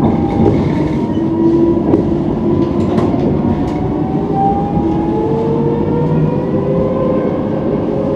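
Tram running on rails, with a steady rumble and an electric motor whine that slowly rises in pitch as it picks up speed. A few short clicks come partway through.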